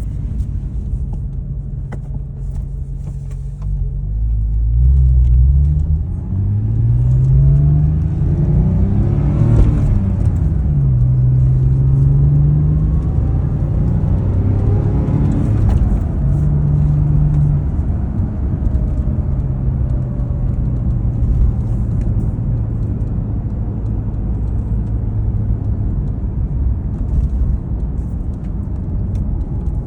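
Porsche 996's water-cooled flat-six engine running, with a few rising revs, the highest about nine to ten seconds in. It then settles to a steady idle for the second half.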